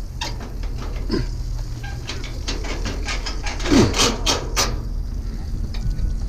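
Scrap steel being unloaded and handled: a run of metallic clanks and knocks, loudest about four seconds in, with a couple of short squeaks and a low steady hum underneath.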